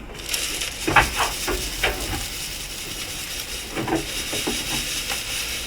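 Dry goat grain and sunflower seeds being scooped and poured, a steady rushing hiss with a few knocks from the scoop and container.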